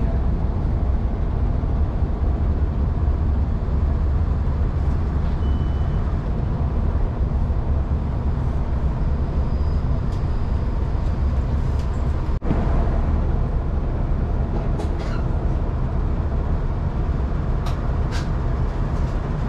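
Diesel multiple-unit passenger train running, a steady low rumble heard from inside the carriage, with a few faint clicks near the end.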